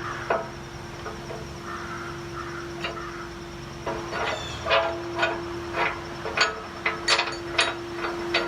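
Sharp metal knocks, roughly two or three a second, starting about halfway through as a tow hook is fitted to the rear of a Jeep Wrangler, over a steady hum.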